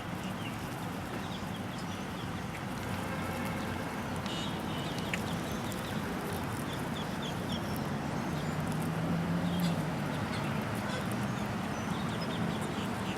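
Flock of birds at a feeding spot calling: short chirps and chattering calls with a brief rattling call about four seconds in, over a steady low background rumble.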